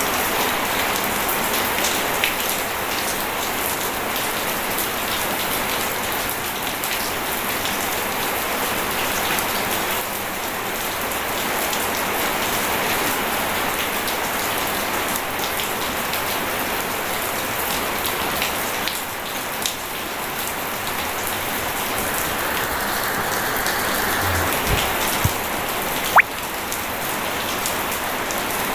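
Steady rain and running water, an even continuous hiss and patter, with a single sharp click a couple of seconds before the end.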